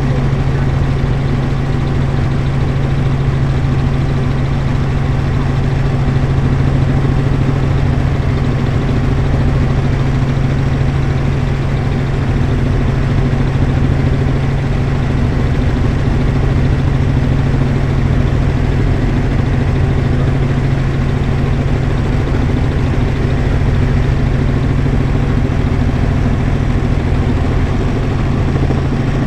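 Helicopter in flight: a steady, loud drone of engine and rotor with a strong low hum, unchanging throughout.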